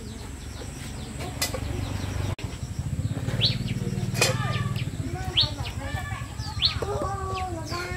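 Birds chirping, with short rising calls every second or two in the second half over a low steady rumble, and a couple of sharp knocks.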